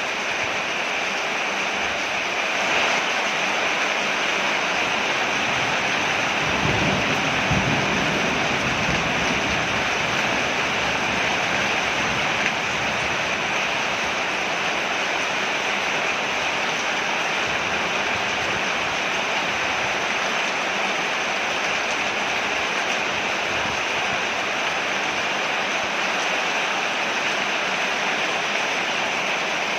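Steady heavy rain falling on a porch roof, an even rushing hiss, with a brief low rumble about seven seconds in.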